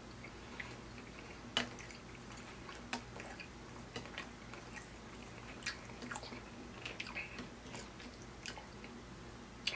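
Close-miked chewing of steak and baked beans, with wet mouth sounds and scattered sharp clicks about once a second, over a faint steady low hum.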